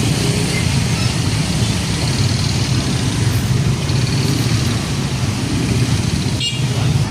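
Heavy truck's diesel engine running close by amid busy road traffic, a steady loud low rumble with tyre and road noise.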